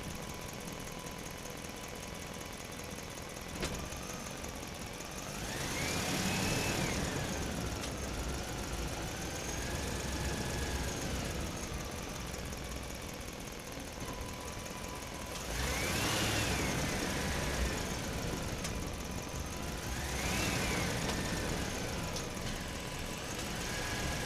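Electric motors of a remote-control toy excavator whining as its arm and bucket are worked, the pitch rising and falling again four times over a steady mechanical hum.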